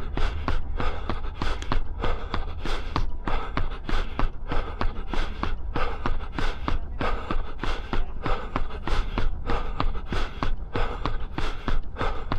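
A runner's footsteps striking the ground at a steady cadence of about three steps a second, with hard, rhythmic breathing at threshold effort.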